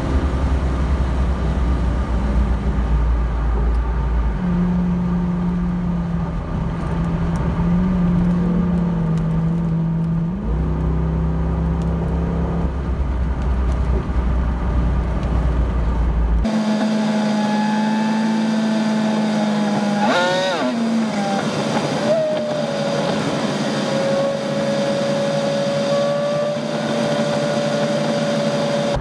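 Car engine and road noise droning steadily at highway cruising speed, heard from inside the cabin. About two-thirds of the way through the sound changes abruptly. Shortly after, the engine note rises quickly and falls back before settling to a steady pitch.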